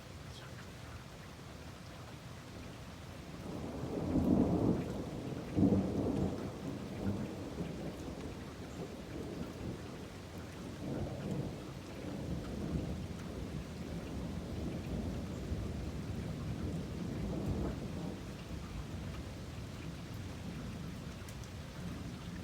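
Steady rain with rolling thunder: a loud rumble builds about four seconds in and peaks with a sharper clap near six seconds. Further rumbles roll on through the middle and then ease off.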